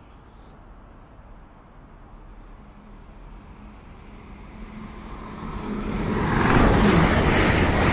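Great Western Railway Hitachi Intercity Express Train approaching along the main line at speed. A faint rumble swells into a loud rushing, rumbling noise from about four seconds in, loudest over the last two seconds as the train reaches the platform.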